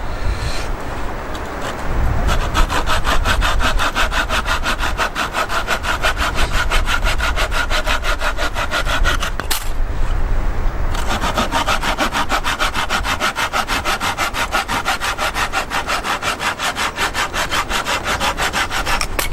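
Hand saw cutting through firewood in quick, even back-and-forth strokes, stopping briefly about halfway through and then starting up again.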